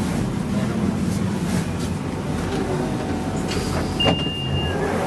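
London Underground 1992 stock train running with a steady low rumble and scattered clicks, then a sharp knock about four seconds in followed by a short, steady high-pitched tone.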